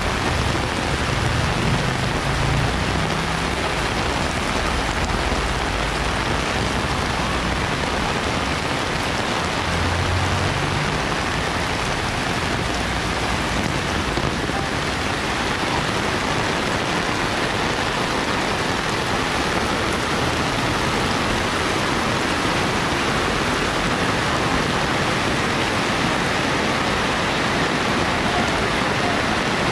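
Heavy rain falling steadily, a dense even hiss, with brief low rumbles near the start and again around ten seconds in.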